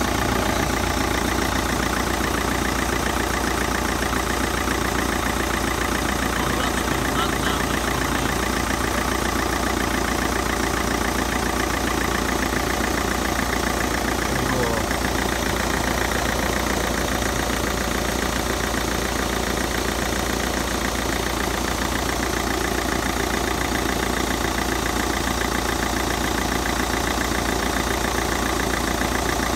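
Peugeot 307's 2.0 HDi four-cylinder turbodiesel engine idling steadily, with the AC compressor engaged and the condenser fan off.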